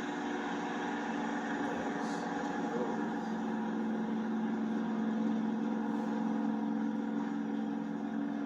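Motorboat engine running steadily, heard from on board the boat.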